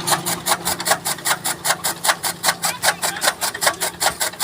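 Fodder cutter (toka machine) chopping green maize stalks into fodder: a rapid, even chop of the blades, about six cuts a second, over a steady low hum.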